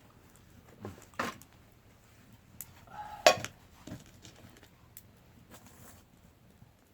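Cookware being handled: a few separate clinks and knocks of pan, lid and utensils, the loudest a sharp knock about three seconds in.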